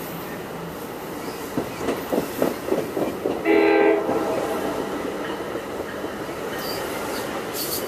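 New Jersey Transit Multilevel bi-level commuter coaches rolling past, with a steady rumble and a run of rapid wheel clicks over rail joints. About three and a half seconds in comes one short train horn blast, the loudest sound.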